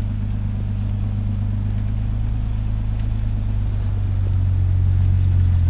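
Off-road vehicle's engine running low and steady as it creeps along a rough backcountry trail, getting a little louder near the end.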